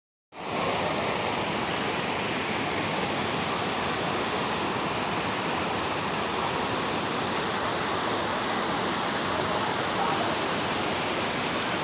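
Steady rushing water, like a waterfall or fast stream, with a thin, steady high-pitched tone running over it.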